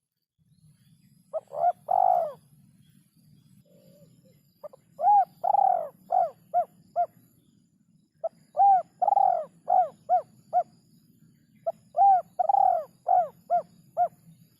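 Spotted dove (derkuku) cooing: a short phrase of three coos, then three longer phrases, each a run of rapid arched coo notes lasting two to three seconds.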